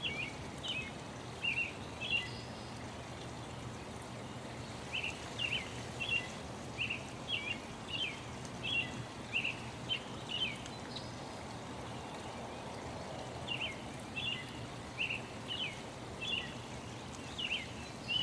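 Birds chirping: short, quick chirps, about two a second, in three runs with brief pauses between, over a steady background hiss.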